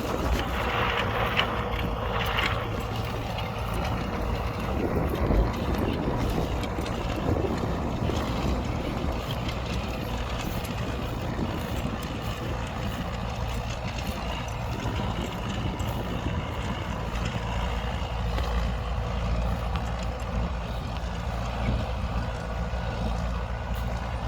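U650 tractor's four-cylinder diesel engine running steadily, pulling a plough through the soil.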